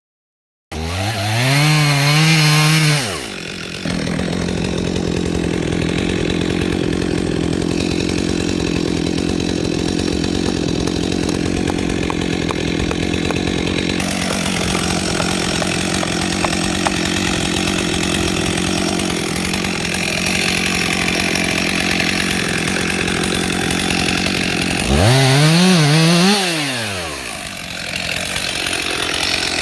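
Chainsaw revving up sharply just after the start, then running at a steady, lower pitch under load as the chainsaw mill rips lengthwise through the log. Near the end it revs up once more and drops back.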